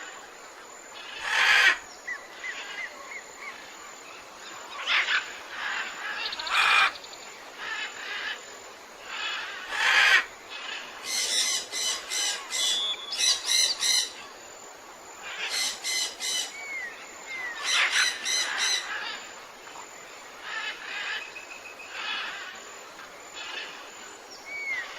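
Several forest birds calling over one another: short down-slurred whistles, loud harsh calls, and runs of rapid repeated notes lasting a second or two.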